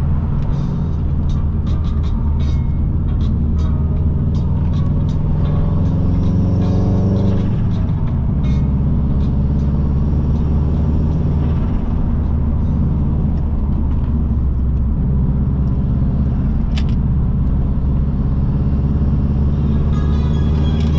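Subaru Impreza WRX's turbocharged EJ20 flat-four engine pulling, its pitch climbing for several seconds. About seven and a half seconds in it drops at a gear change, then runs steadily at lower revs. Scattered sharp ticks are heard through the first half.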